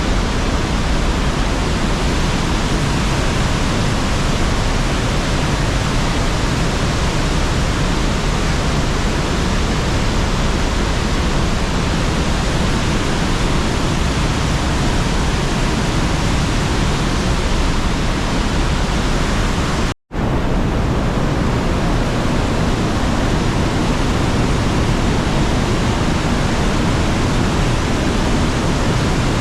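Trümmelbach Falls, glacial meltwater cascading through the rock gorge inside the mountain: a loud, steady rush of falling water. The sound drops out for an instant about twenty seconds in.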